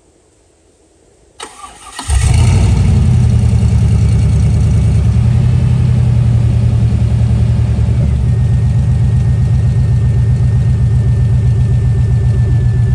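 Rock crawler's engine cranked briefly by the starter, catching about two seconds in, then running steadily at idle.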